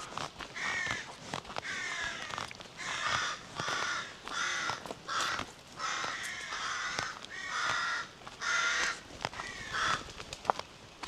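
Birds giving harsh, cawing calls, about a dozen of them at roughly one a second, with a few faint clicks between.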